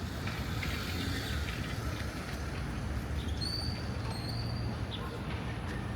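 A steady low rumble, with a few short, high bird chirps in the middle.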